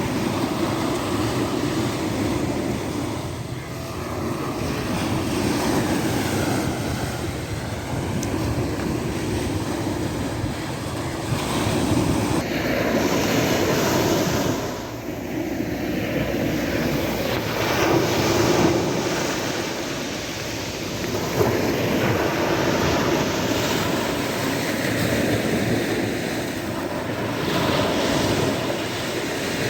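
Sea waves breaking and washing ashore: a continuous hiss of surf that swells and ebbs every several seconds.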